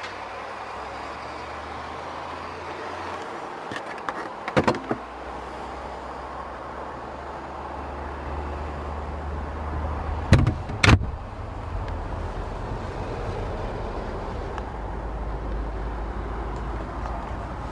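A car engine running steadily at a low idle, with a short knock about four and a half seconds in and two more close together near eleven seconds.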